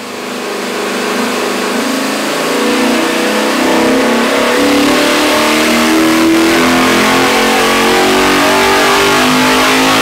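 Rebuilt Eliminator Spec R 454 LS7 V8 running hard on an engine dyno, fading in over the first few seconds and then holding loud and steady, its pitch creeping slowly up as in a dyno pull.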